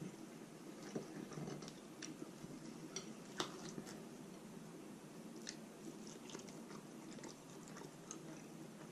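Faint, close-up chewing and biting on roast chicken, with scattered small wet clicks and crunches. One sharper click comes about three and a half seconds in.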